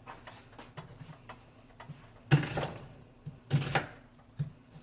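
A spoon scraping and stirring rice frying in a pot: two short scrapes about a second apart, with light clicks between them, over a low steady hum.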